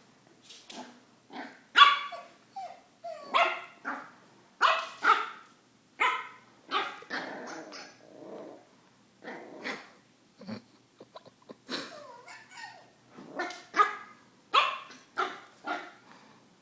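Young border collie/blue heeler mix puppy barking over and over in short, sharp yaps, about one or two a second, out of fear of a toy dog.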